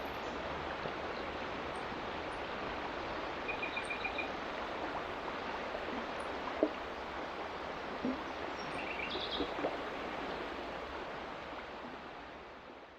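Stream running high after rain, a steady rush of water, with two short runs of bird chirps and a single sharp click from the water; the sound fades out near the end.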